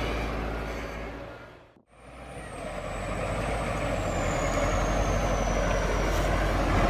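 Heavy tractor diesel engine running, fading out and back in about two seconds in; afterwards a thin high whine drifts slowly down in pitch over the engine.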